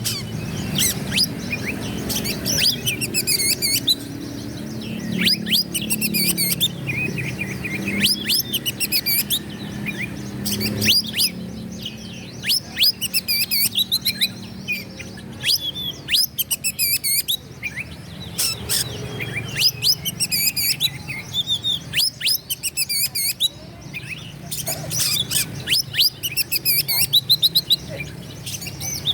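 Oriental magpie-robin singing energetically: bursts of rapid, varied whistles, trills and steep down-slurred notes, phrase after phrase with short pauses between them.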